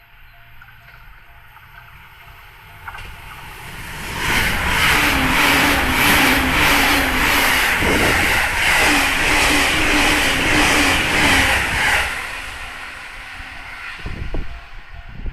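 E259 series Narita Express electric train passing at speed, loud for about eight seconds with a regular clatter of wheels over the rails, then fading away. A level-crossing warning bell rings faintly and repeatedly before and after the train passes.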